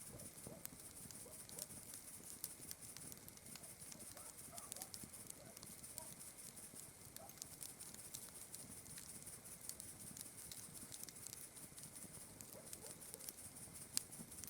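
Wood campfire crackling softly, with frequent small sharp pops and one louder snap near the end, over a steady high-pitched chirring of night insects.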